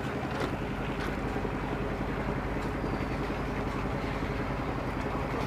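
Large engine running steadily at a constant speed.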